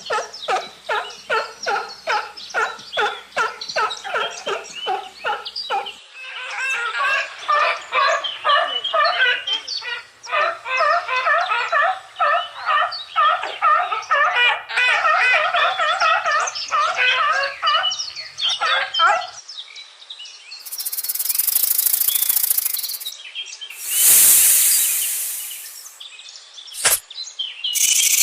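Animal calls, bird-like. At first short calls repeat evenly, about three a second; then a dense chatter of many overlapping calls follows. Near the end come several short hissing bursts and a sharp click.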